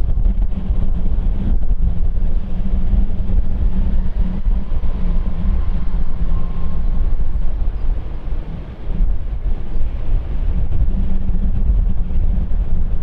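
Jet airliner engines giving a steady low rumble, with a faint whine in the middle and a brief dip in level near the end, mixed with wind buffeting the microphone.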